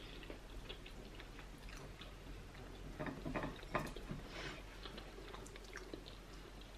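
Faint chewing with small wet clicks, and fingers working in sticky okra soup in a bowl. A cluster of louder clicks comes about three to four seconds in.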